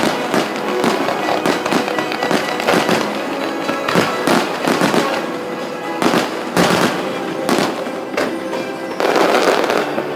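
Aerial fireworks display: repeated bursts and crackling shells, with music playing underneath.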